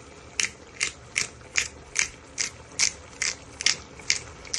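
Pepper grinder being twisted, grinding black pepper with a steady run of about eleven ratcheting clicks, roughly two and a half a second.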